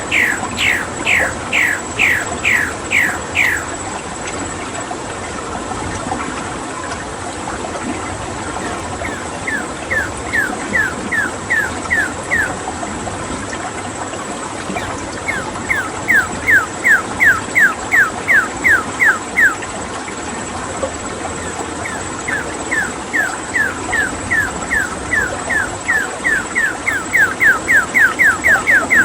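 A bird calling in series of short notes that slide down in pitch, about three a second. Each series lasts a few seconds with pauses between, and the last comes a little faster. Under it is a steady rush of running water.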